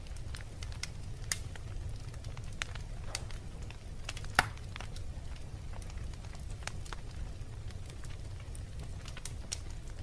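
Wood fire burning in a fireplace: a steady low rumble with scattered crackles and pops, one sharp, loud pop about four and a half seconds in.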